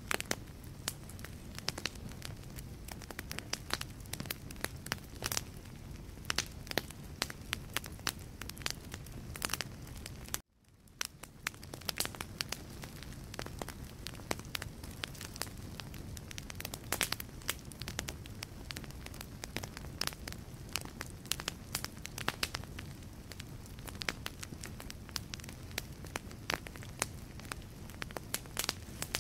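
Logs burning in a fireplace: frequent, irregular sharp crackles and pops over a low, steady rumble of flame. About ten seconds in the sound cuts out for a moment and fades back in.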